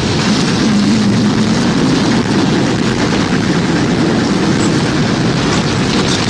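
Loud, steady wind noise of a tornado, a dense rushing that fills the whole range without letting up.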